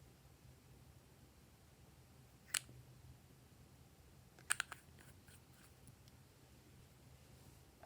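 Glossy slime being worked by hand, giving a single sharp sticky click about two and a half seconds in, then a quick cluster of clicks and small pops a couple of seconds later, over a faint low hum.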